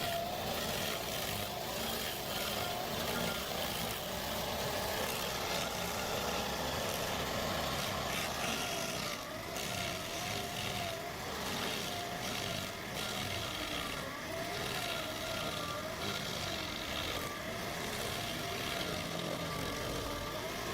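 Stump grinder running steadily, its engine note wavering slightly up and down.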